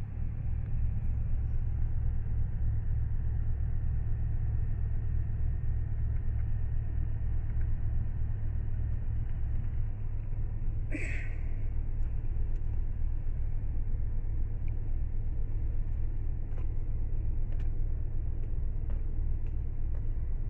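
The 1998 GMC Savana's 5.7-litre Vortec OHV V8 idling steadily as a low, even rumble. There is one brief sharp sound about halfway through.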